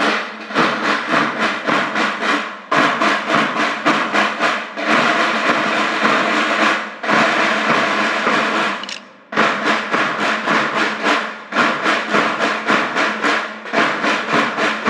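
School band drums, snare drum among them, playing fast rhythmic strokes in phrases of about two seconds with short breaks between them.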